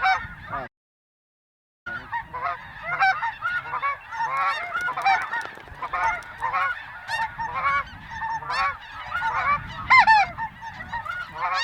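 A large flock of geese honking and calling over one another in a dense, unbroken chorus of overlapping calls. The sound cuts out completely for about a second near the start, then the chorus resumes.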